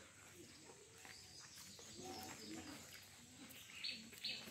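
Faint outdoor background with birds: near the end a bird gives a quick run of short, high chirps, a few to the second.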